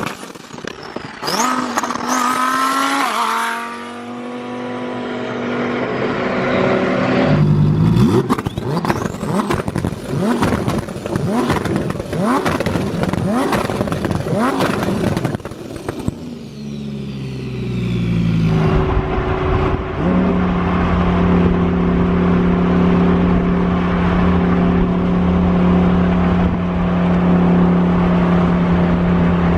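Twin-turbo 5.2-litre V10 of a Lamborghini Huracan Performante under hard throttle. Partway through, a high turbo whistle rises and then fades over a run of crackles. The revs then drop and the engine settles into a steady drone for the last third.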